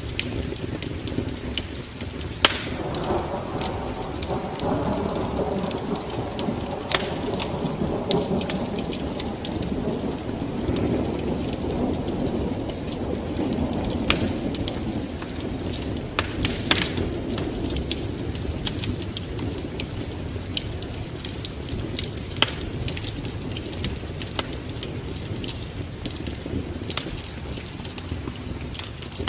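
Wood fire in a fireplace crackling, with frequent sharp pops. A low rumble swells about two and a half seconds in and slowly fades over roughly ten seconds.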